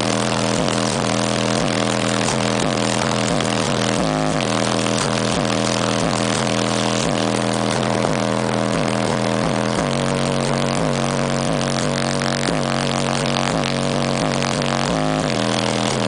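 Hip-hop track with heavy bass played very loud through a car audio system of six 12-inch DB Drag subwoofers. Its low bass notes repeat about twice a second, each sliding down in pitch.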